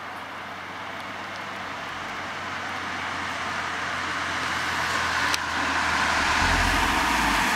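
2018 Subaru WRX on the road, its road and driving noise growing steadily louder over several seconds. A deep low rumble joins in near the end.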